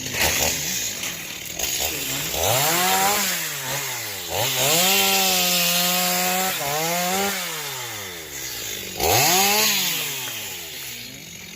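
Chainsaw cutting the wood of a fallen tamarind tree, its engine revving up and easing off again four or five times, holding at full speed for a couple of seconds in the middle.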